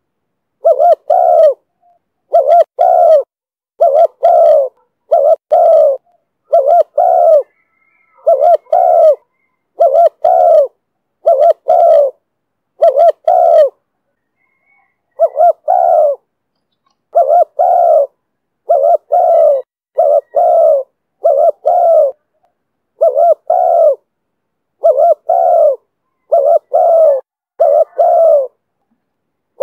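Spotted dove cooing over and over in the 'thổ thúc bổi' voice, each call a loud two-part coo, about one every one and a half seconds, with one longer pause about midway.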